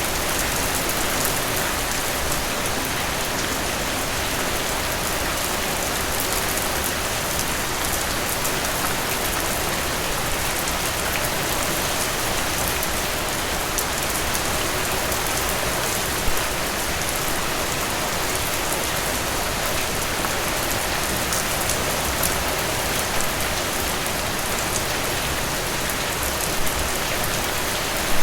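Steady rain falling, a dense even hiss with fine drop patter on a surface and a few louder drips near the middle and end.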